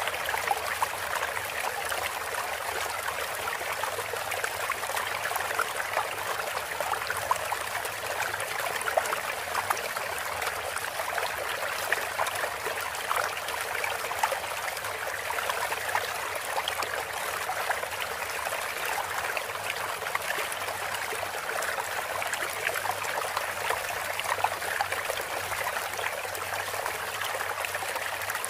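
Steady trickling, flowing water like a small stream: a 'water therapy' sound played to songbirds between song tracks.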